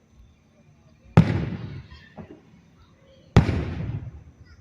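Two aerial fireworks shells bursting, about two seconds apart, each a sharp bang followed by a long rolling echo that dies away.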